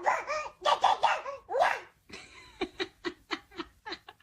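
A pet's vocal calls, drawn out and bending up and down in pitch, then a quick run of short sharp yips that speed up toward the end.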